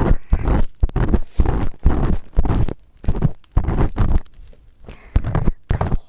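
Ear pick scraping hard inside the ear of a binaural dummy-head microphone: gritty, crunchy strokes about two to three a second, with a couple of short pauses.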